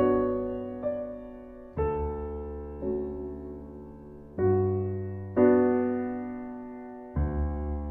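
Slow, soft piano music: notes and chords struck about once a second or so, each left to ring and fade before the next.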